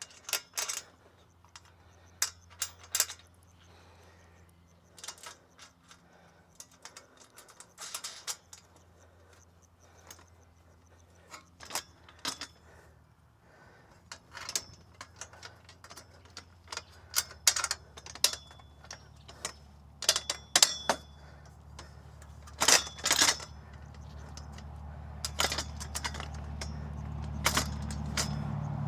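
Metal parts and hardware of a non-penetrating roof mount clinking and clanking irregularly as they are handled and fitted together, in quick clusters of sharp knocks. A low rumble builds steadily louder over the last few seconds.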